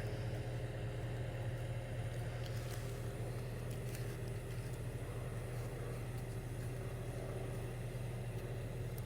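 CAT 304 E2 mini excavator's diesel engine running steadily at a low, even idle.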